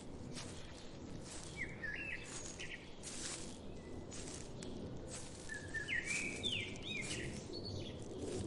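Forest ambience: a songbird sings two short phrases of quick rising and falling notes, about two seconds in and again about six seconds in, over the steady low rush of a forest stream.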